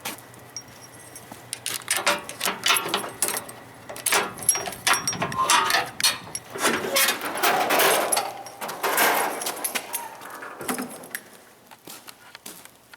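Keys jangling and a run of metal clicks and clanks as a lock is undone, then a longer scraping noise as the workshop door is opened.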